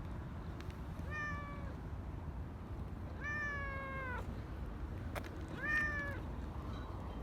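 A domestic cat meowing three times, the middle meow the longest, each call holding its pitch and dropping slightly at the end.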